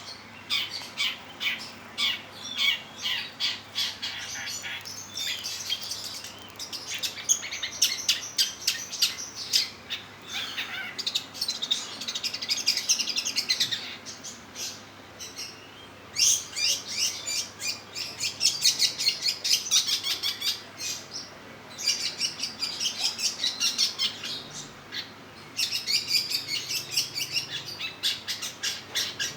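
Long-tailed shrike singing: long runs of rapid, chattering notes in bouts of several seconds, broken by short pauses.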